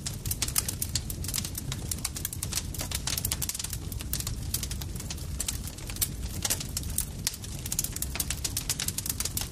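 Campfire crackling steadily: dense, irregular pops and snaps from burning wood over a low, constant rumble of the flames.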